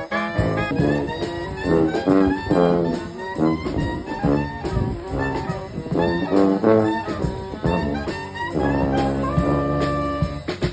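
Brass band playing an upbeat jazz tune in short, punchy notes, ending on a chord held for a couple of seconds near the end.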